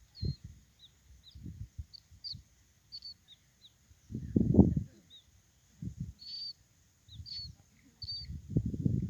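Baby birds giving short, high chirps, repeated every half second or so. Low rustling and bumping sounds come and go, loudest about four to five seconds in.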